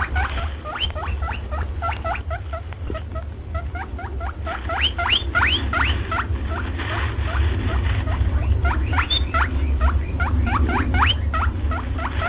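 Many short, high squeaking calls from a group of small animals, several a second and overlapping, each rising quickly in pitch, over a steady low rumble.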